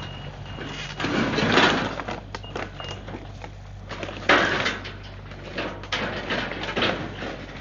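Heavy-equipment engine running steadily under loud crashing and crunching of demolition debris. The crashes come about a second in, a sharp one around four seconds, and more near the end.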